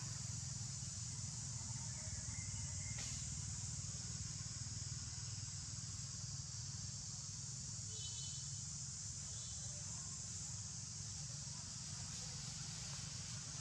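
Steady outdoor ambience: an even high hiss over a low rumble, with a faint, short high-pitched call about eight seconds in.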